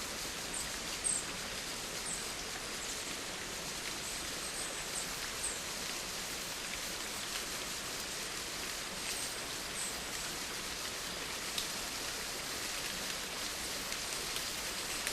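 Steady rain falling, an even hiss of many drops on surfaces, with a sharper single drop tap about a second in. A few faint high squeaks show in the first half.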